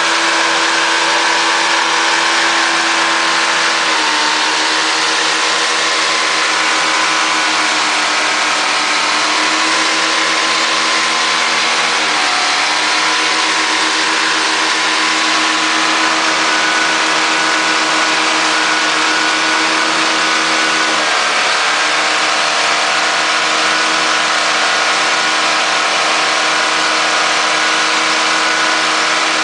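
1965 Ford Falcon engine running at high, steady revs with the throttle held wide open by a brick and no coolant in it. The pitch drops a little about four seconds in and sags briefly twice more before recovering.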